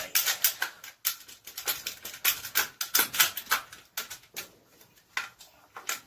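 Rapid, irregular metal clicks and knocks of hand tools working on an engine, several a second, thinning out near the end.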